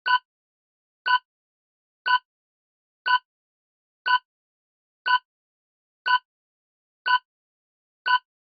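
Quiz countdown-timer sound effect: a short bright tick once a second, nine ticks in a row.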